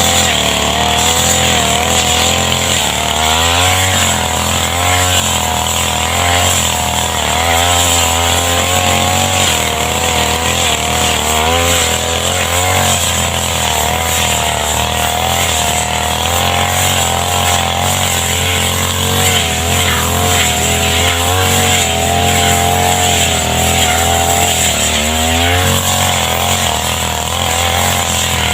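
Small two-stroke grass cutter engine running at high speed, its pitch wavering up and down again and again as it cuts grass.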